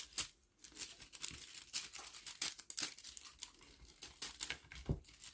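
Irregular crinkling and rustling: a quick run of small crackles, as of crinkly plastic or paper being moved about.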